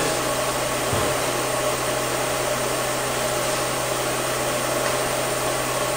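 Steady machine hum in a machine shop, an even running noise with constant tones in it, with a soft low bump about a second in.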